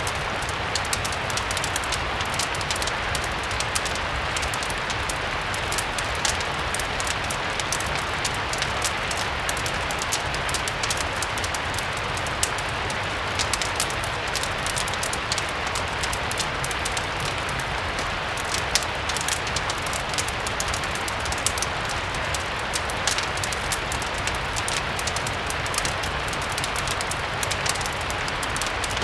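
Gentle steady rain mixed with a crackling fireplace: an even hiss dotted with frequent small sharp crackles and ticks, over a low steady rumble.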